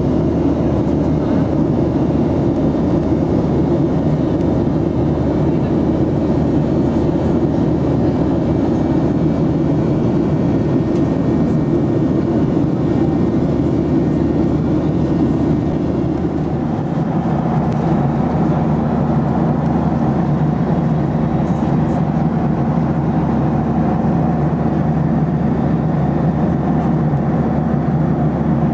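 Steady drone of a Boeing 737NG's cabin in flight: its CFM56 jet engines and rushing air heard from a passenger seat. About two-thirds through, the pitch of the drone shifts, as with a change in engine thrust.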